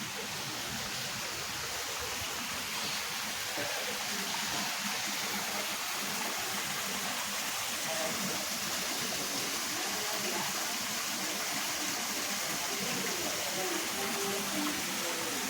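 Flowing water rushing steadily, as from a stream or waterfall.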